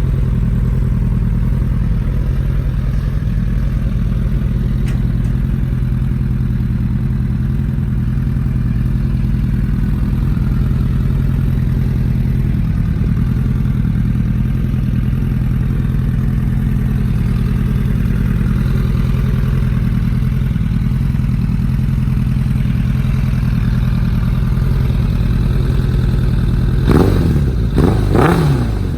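1998 Suzuki Katana 750 inline-four motorcycle engine idling steadily through an aftermarket Delkevic exhaust, then blipped up and back down about three times in quick succession near the end.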